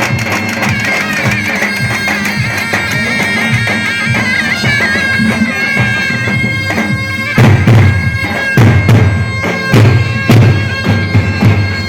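Davul and zurna playing a halay dance tune: the zurna's high, sustained melody over the davul's steady beat. Heavy drum strokes come in louder from a little past the middle.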